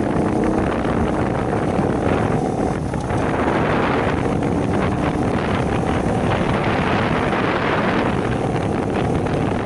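Heavy wind buffeting the microphone while riding a small Shineray 50cc motorcycle, with the bike's little engine running steadily underneath.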